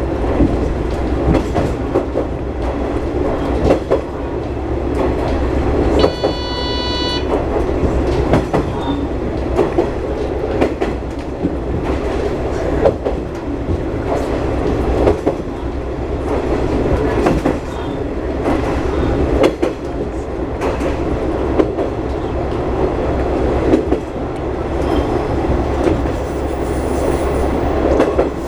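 Diesel railcar running along the line, heard from inside: a steady engine and running drone, with wheels clicking and knocking over rail joints. About six seconds in, the train's horn sounds once for about a second.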